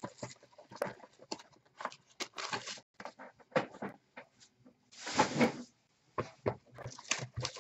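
Baseball card packs and boxes being handled on a table: scattered light clicks and brief rustles, with one louder rustle about five seconds in.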